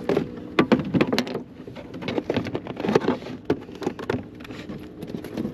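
Raindrops pattering irregularly on the canoe and the camera close to the microphone, a few sharp taps a second, over a steady low hum.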